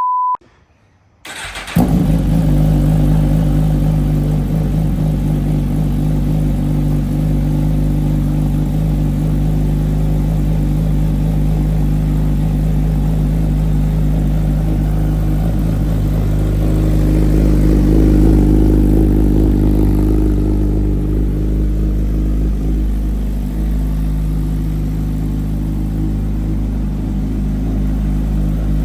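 Suzuki GSX-R 1000 inline-four engine starting about two seconds in on its first startup through a newly fitted Brock's Performance full-system exhaust, then idling steadily. Its revs rise a little and settle again about two-thirds of the way through.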